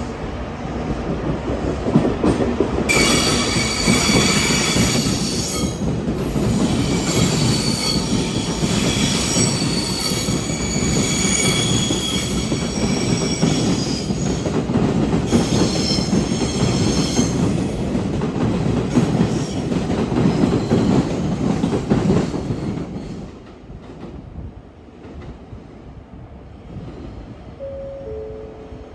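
A train running past along the platform, its wheels rumbling and squealing in high, steady tones for much of its passage. The noise drops away about twenty-three seconds in.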